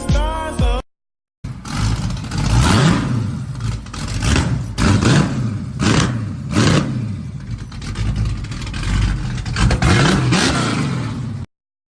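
Car engine revving, its pitch climbing and dropping again and again, with tyre or road noise. A snatch of music ends the previous clip just before it.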